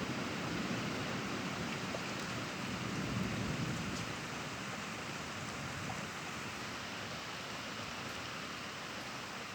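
Steady rain falling in a thunderstorm, with the last of a thunderclap fading at the start and a faint low rumble of thunder about three seconds in.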